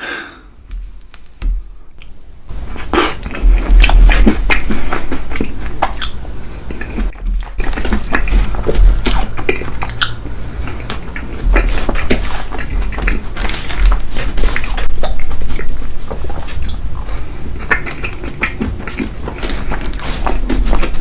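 Close-miked eating: cutlery clicking and scraping against dishes, with chewing and low thumps, in a steady run of short sounds.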